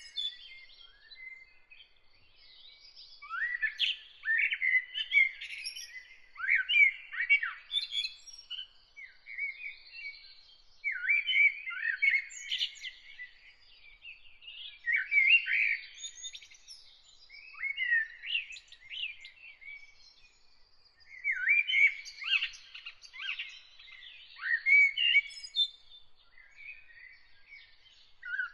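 Songbirds singing outdoors: short warbling, chirping phrases, each about a second long, repeated every two to three seconds with brief pauses between.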